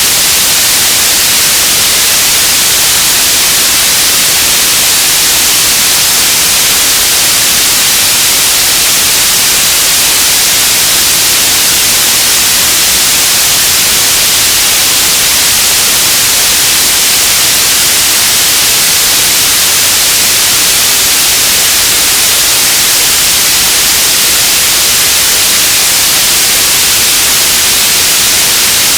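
Radio static: a loud, steady hiss, strongest in the highs, with no tones, clicks or changes.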